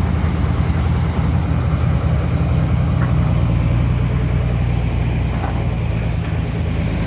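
Heavy machinery engine running steadily at a low, even drone, from an excavator or dump truck.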